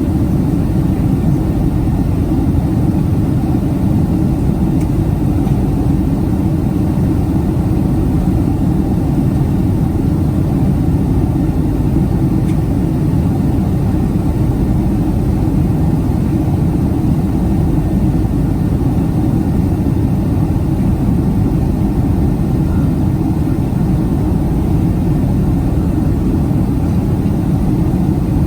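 Steady cabin noise inside the economy cabin of a Boeing 767-300ER airliner: a constant low rumble of engine and air noise that holds an even level throughout.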